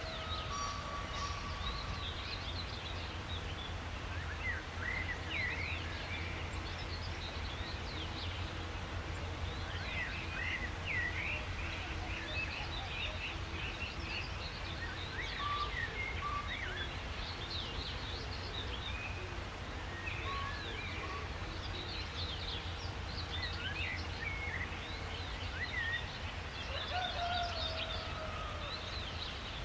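Several wild birds singing and calling together: a busy chorus of short chirps, trills and whistled notes, over a steady low rumble.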